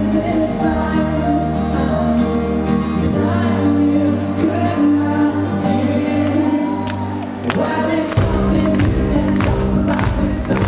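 Live pop-rock band playing a song, with held bass notes and a sung melody; drums and a steady beat come in about eight seconds in.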